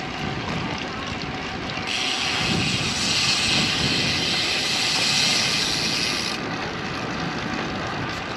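Wind rushing over the microphone and road noise while riding a road bicycle in gusty wind. A brighter hiss starts abruptly about two seconds in and cuts off suddenly about four seconds later.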